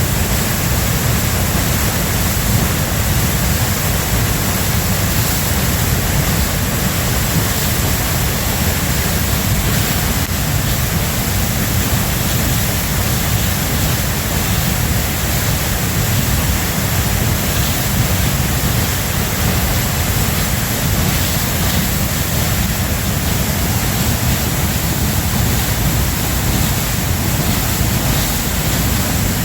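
Waterfall rushing, a loud, steady, unbroken noise.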